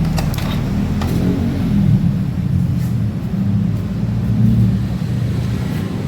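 A small motorcycle engine running steadily, its pitch wavering slightly up and down.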